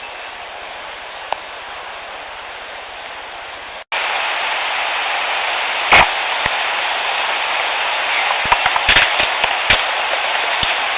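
Field-recorder audio of steady hiss that cuts to a louder clip a little under four seconds in, with a sharp click about six seconds in and a quick run of clicks and pops later on: the subtle snaps and pops the recordist takes for Sasquatch mouth sounds.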